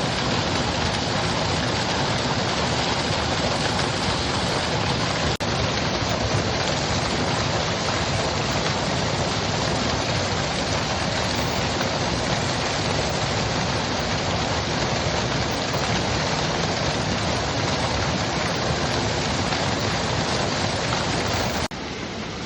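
Mountain stream water rushing and splashing in a steady, dense hiss, with a brief dropout about five seconds in and a step down to a quieter, softer rush near the end.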